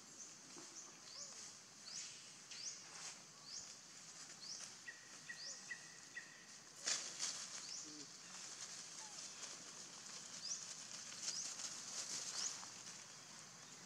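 Faint forest ambience: a bird's short, high rising chirps repeated irregularly, pausing for a few seconds in the middle, with a few short whistled notes about five to six seconds in and a brief rustle about seven seconds in.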